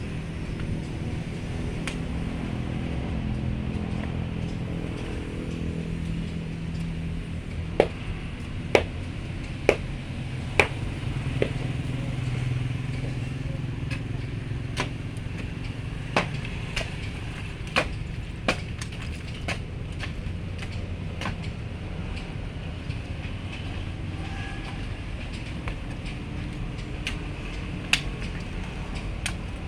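Truck engine idling low while soil is shoveled off the truck by hand, with a scattered series of sharp knocks and clinks, most of them between about 8 and 20 seconds in and one more near the end.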